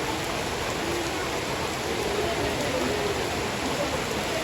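Heavy rain falling steadily, with a few faint wavering pitched sounds underneath.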